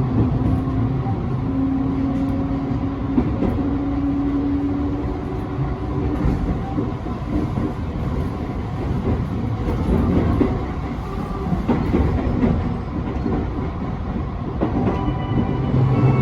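Electric passenger train running, heard from aboard: a steady rumble of wheels on rail with a motor whine that steps up in pitch over the first few seconds as the train gathers speed.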